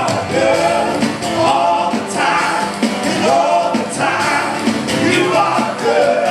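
Congregational worship music: a singing group with a band, voices and instruments together.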